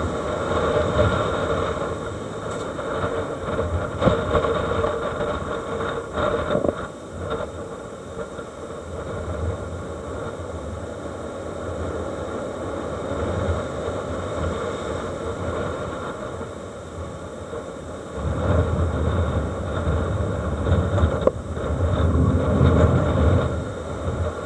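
Strong storm wind and rough sea the day after a typhoon, a steady rushing noise with heavy low rumble that swells in gusts, stronger again in the last few seconds.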